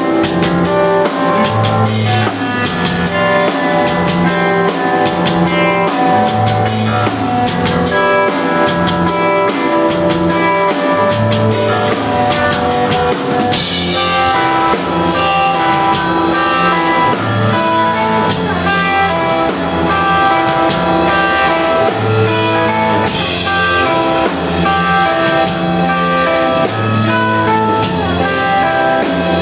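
Live band playing an instrumental passage on electric guitar and drum kit, with steady drumming and cymbals under sustained guitar notes. The drums thin out about fourteen seconds in, leaving the guitar more to the fore.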